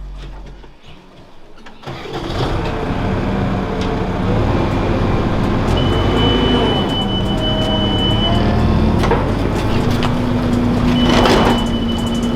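A farm machine's engine starting about two seconds in and then running loudly, with a thin high whine coming and going.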